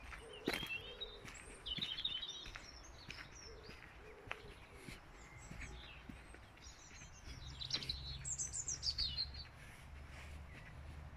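Small songbirds singing and chirping in quick, high warbling phrases, loudest about two-thirds of the way through, with soft footsteps on the gravel towpath. A low steady rumble comes in about two-thirds through.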